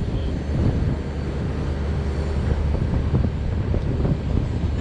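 Strong wind buffeting the microphone over the steady low running of a heavy lifting crane's engine.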